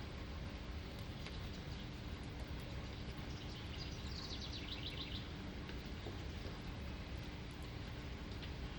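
Steady rain hiss, with a songbird singing one rapid trill about three and a half seconds in that lasts around a second and a half and drops slightly in pitch.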